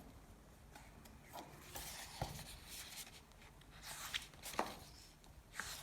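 Faint paper rustling with a few soft clicks and taps, a picture book's pages being handled and turned.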